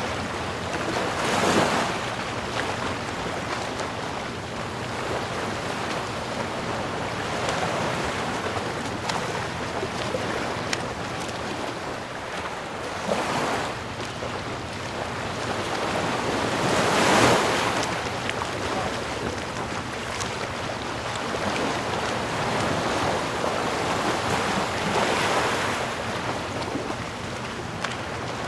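Ocean waves washing onto a shore over a steady surf hiss, with waves breaking about a second and a half in, around 13 s, around 17 s (the loudest) and around 25 s.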